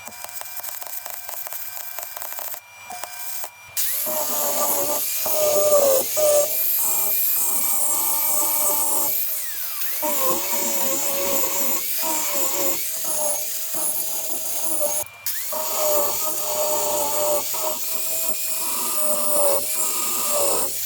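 A power tool running under load, its mid-pitched whine wavering up and down over a hiss. The sound drops out abruptly a few times, as at edit cuts.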